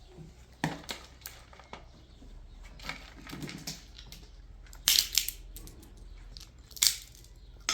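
A series of scattered sharp clicks and knocks, like objects being handled and set down, the loudest about five seconds in and again near seven seconds.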